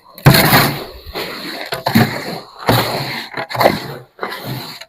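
Short-handled concrete hoe scraping and pushing wet concrete around a wheelbarrow, in repeated strokes about once a second, with the mix at a good working consistency.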